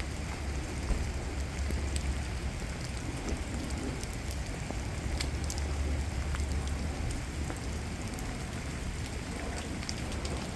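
Steady rain falling, with scattered sharp ticks of individual drops over a continuous low rumble.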